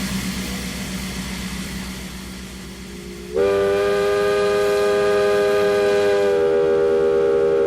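Steam locomotive whistle blown in one long blast of several tones sounding together, starting about three and a half seconds in, held for about four seconds and cut off sharply. Before it, a steady low hum and hiss from the standing steam engine.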